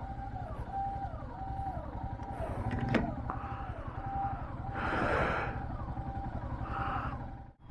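A repeating electronic warning tone, each note held and then dropping in pitch, just under two a second, over the low rumble of engines in traffic; a short hiss sounds about five seconds in.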